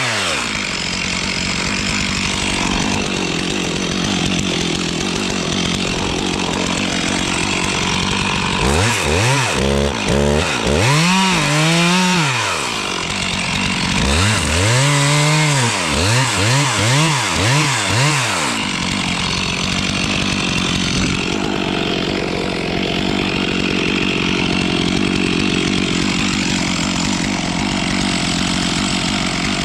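Stihl chainsaw cutting through dead spruce under load, running steadily. Twice, about a third and a half of the way in, the saw is revved up and down about once a second, four or five times each spell, before it goes back into the cut.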